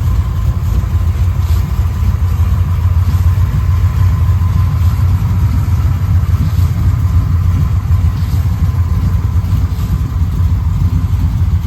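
A 410-cubic-inch Magnum V8 stroker in a 1996 Dodge Ram 1500 idling steadily through a newly fabricated exhaust.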